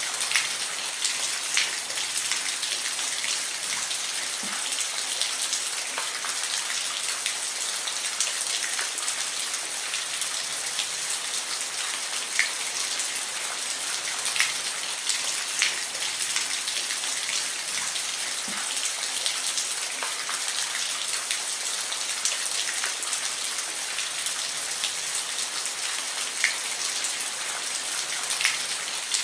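Steady rain falling on a surface, a constant hiss with the sharp ticks of individual drops landing here and there.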